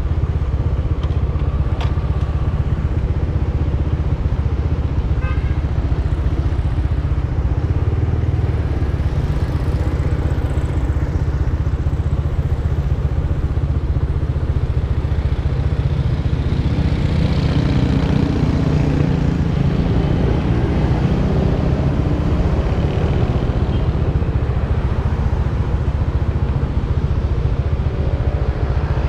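Modenas GT128 motorcycle engine idling steadily while the bike stands still, with another vehicle passing about two-thirds of the way through.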